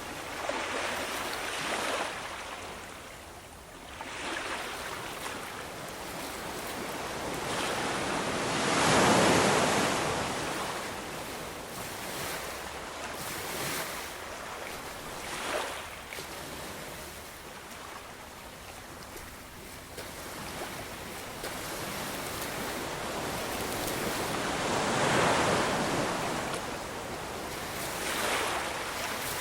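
Ocean waves breaking and washing in, the rush of water swelling and falling away with each wave. The two largest breakers come about nine seconds in and again about sixteen seconds later, with smaller surges in between.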